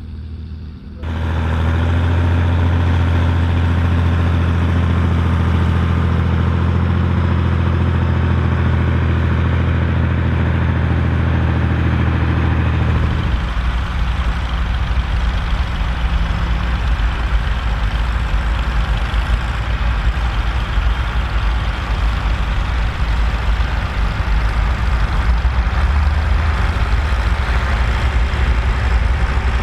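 Volvo BM 2654 tractor's diesel engine running steadily, loud from about a second in. About halfway through its note drops to a lower, deeper pitch.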